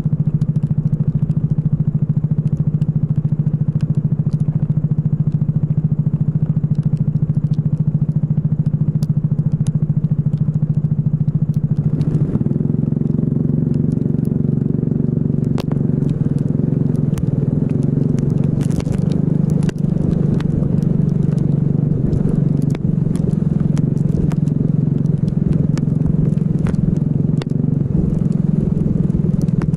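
Racing kart engine running, holding a steady pitch at first. About twelve seconds in it gets fuller, and its pitch then rises and falls as the revs change. Sharp crackling clicks are scattered over it.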